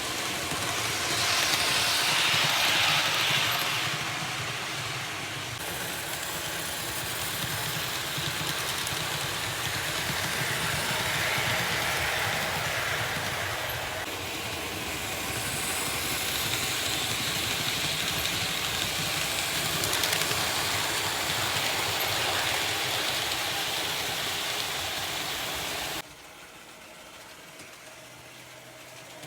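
Märklin H0 model train running past on the layout: a steady rolling rattle of wheels on the metal track and the locomotive's motor, swelling louder a few times, then cutting off abruptly near the end.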